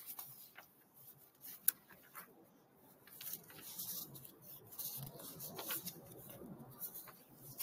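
Faint rustling and small clicks of handling, with one sharp click just under two seconds in and busier rustling from about halfway.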